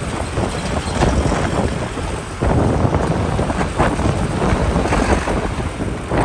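Wind buffeting the microphone on a moving motorbike, over the running of the bike's engine and the surrounding motorbike traffic. It grows louder about two and a half seconds in.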